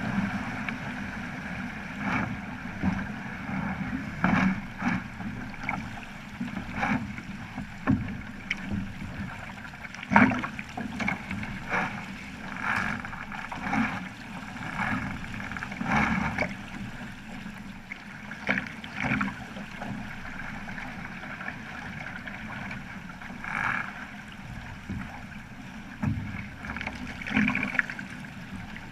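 Water rushing and gurgling along the hull of a Flying Fifteen under sail, with irregular slaps and splashes every second or two.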